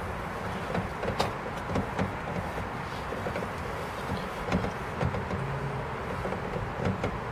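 Steady low rumble of a car engine idling, heard from inside the parked car's cabin, with a few light clicks and knocks.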